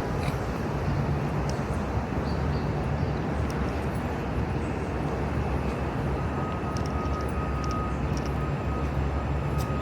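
Steady low rumble of city street traffic, with a thin steady high tone coming in about six seconds in and a few faint clicks.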